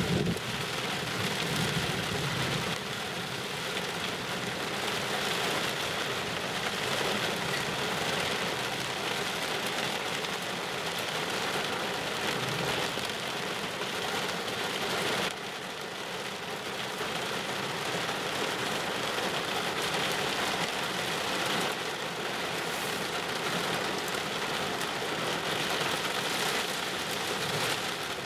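Heavy rain pouring down on a car, heard from inside it, as a steady dense hiss. A low rumble of thunder sounds in the first couple of seconds, following a close lightning strike.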